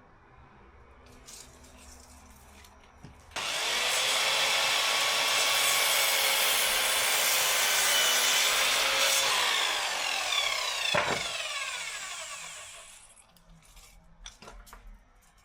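Electric power saw cutting wood: it comes in abruptly a few seconds in, runs loud and steady for about six seconds, then dies away over the next few seconds, with a single knock as it winds down.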